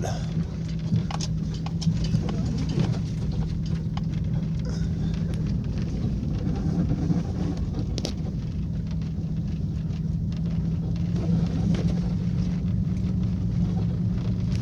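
Jeep Liberty's 3.7-litre V6 running steadily with a constant low hum, under road and tyre noise from driving on a snow-covered road, heard from inside the cab.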